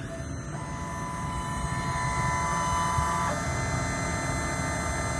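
Desktop CNC IC-cutting machine starting a milling pass over a phone IC at 0.75 mm depth: its motors come up to speed with a steady whine of several tones, and the tone changes about three seconds in.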